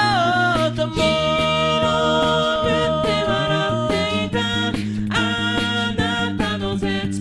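A cappella group singing: layered voices hold sustained chords over a sung bass line, with steady beatboxed percussion.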